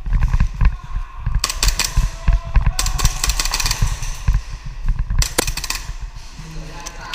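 Airsoft pistols firing, sharp cracks coming in quick clusters about a second and a half in and again after about five seconds, over a constant low rumble.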